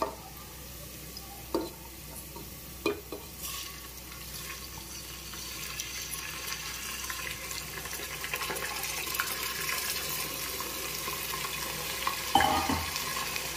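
Onions and then uncooked rice sizzling in hot oil in a pressure cooker, stirred with a wooden spatula that knocks against the pot a few times in the first three seconds. The rice is poured in about halfway through and stir-fried to coat it in oil, and the sizzle grows louder.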